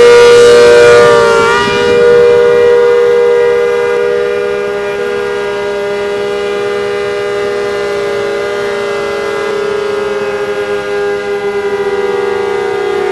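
ACA Hurricane outdoor warning siren sounding a loud chord of steady tones. Its pitch slowly falls from about two-thirds of the way through, and its level wavers near the end.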